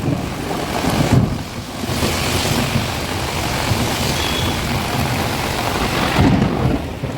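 Heavy rain pouring, a loud steady hiss with low rumbling underneath; the sound changes abruptly a couple of times, as between clips.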